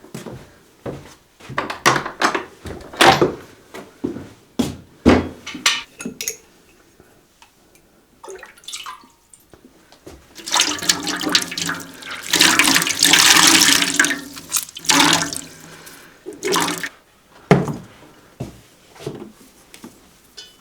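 Kitchen things being handled, with a string of knocks and clatters, then water pouring or running for about five seconds in the middle, followed by a few more knocks.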